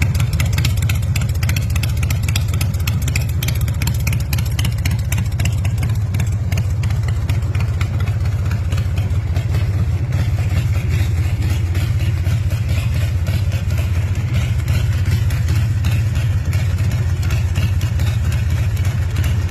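Big Dog chopper's 124 cubic inch S&S V-twin engine idling steadily, loud, with a rapid even pulse.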